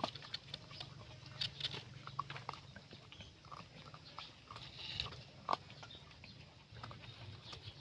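A dog eating, with irregular chewing and smacking sounds; one smack about five and a half seconds in is louder than the rest.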